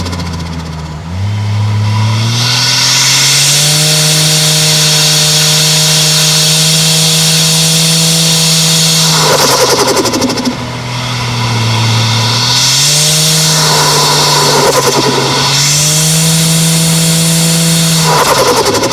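Toyota 1JZ-GTE turbocharged straight-six engine and exhaust pulling hard three times, its pitch rising in each pull. Each time the throttle is lifted, about 9, 13 and 18 seconds in, there is a short noisy burst of turbo flutter before it pulls again.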